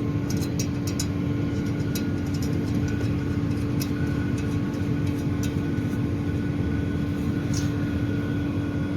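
Steady mechanical hum with a constant low tone from running equipment, with a few light metallic clicks as the fan impeller is screwed onto its motor shaft.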